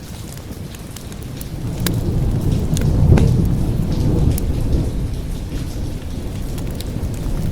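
A low rumble of thunder building about a second and a half in, peaking around three seconds and rolling on, over steady rain, with scattered sharp crackles of a wood fire.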